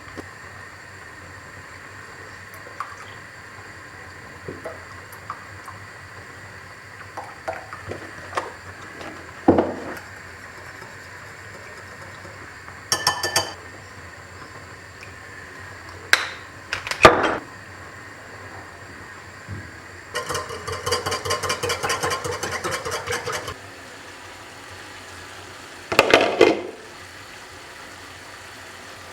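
Kitchen handling sounds: utensils and dishes clinking and knocking now and then, a quick rattling run lasting about three seconds past the two-thirds mark, and a louder clatter near the end.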